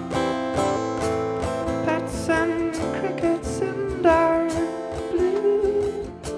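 Live folk band playing, led by a strummed acoustic guitar.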